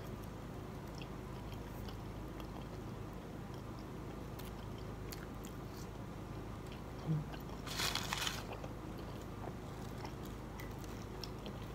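A person quietly chewing fried food, with one short, louder crunch about eight seconds in.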